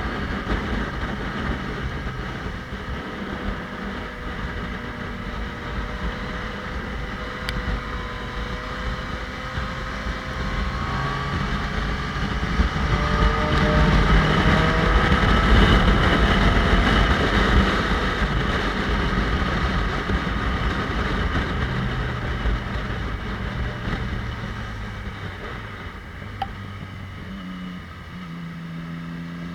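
Motorcycle engine running under way, its pitch rising and falling with throttle and gear changes, with wind rush over the microphone. It is loudest about halfway through and eases off near the end.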